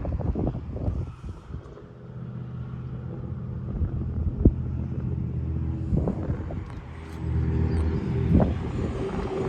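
BMW M4 Competition's twin-turbo straight-six engine idling steadily. It gets louder about seven seconds in, with a few sharp clicks and knocks over it.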